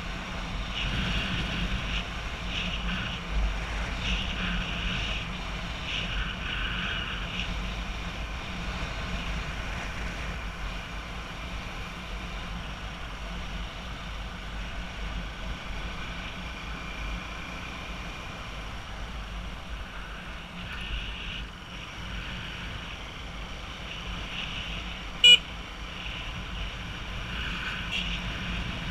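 Steady road traffic noise from motorbikes and other vehicles, with recurring higher-pitched patches that may be horn toots, mostly in the first few seconds and again near the end. A single sharp click sounds near the end.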